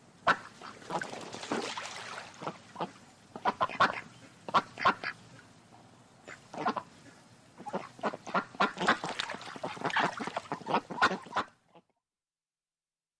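Ducks quacking: many short calls in irregular runs, several overlapping, stopping suddenly near the end.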